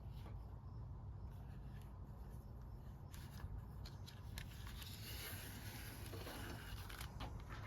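Faint rustling and light clicks of hands handling a new pull cord and a recoil starter pulley, over a steady low hum.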